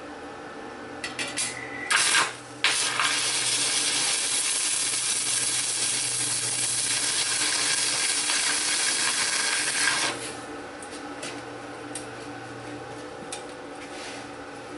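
Stick welding with 6013 rods on an AHP Alpha 160 ST inverter welder: a few short arc strikes about two seconds in, then the arc runs with a steady crackle for about seven seconds and stops about ten seconds in, followed by a few light clicks. A low hum runs underneath.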